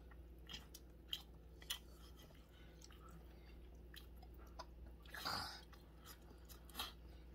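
Close-up mouth sounds of a person chewing meat pulled off the bone: faint, scattered wet clicks and smacks, with one louder, longer mouth noise about five seconds in.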